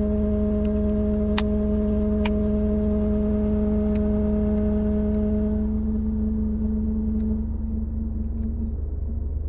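A car's steady humming tone over a low rumble. The hum fades out over the second half while the rumble goes on, with a few sharp clicks early on. It is the noise the owner calls bad.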